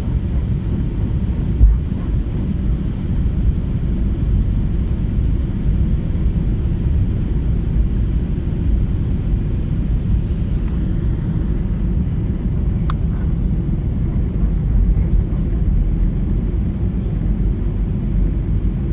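Airplane noise: a steady low rumble, with a brief thump about two seconds in.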